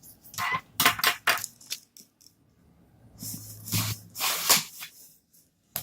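Handling noises from a cardboard box and tools: a quick run of clicks and light knocks, then a longer scraping rustle partway through.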